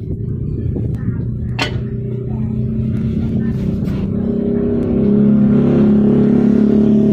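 A steady motor hum that grows louder about five seconds in, with a single sharp clack about a second and a half in.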